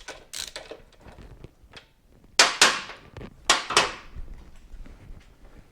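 Hand-tool work on a motorcycle during teardown: a few light ratchet-like strokes, then four sharp knocks in two pairs about a second apart, the loudest sounds here.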